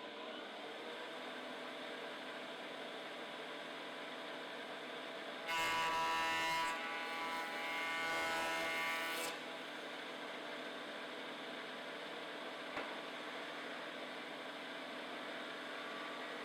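Surface planer running steadily, with a louder, pitched cutting whine for about four seconds in the middle as a board passes over the cutter head. A single short click near the end.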